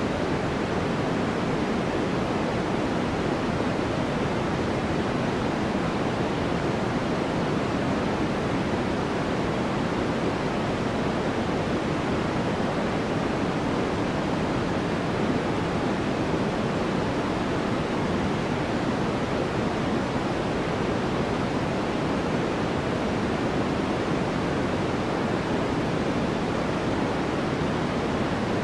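Continuous white noise for sleep: a steady, even hiss with no changes, weighted toward the lower middle rather than bright.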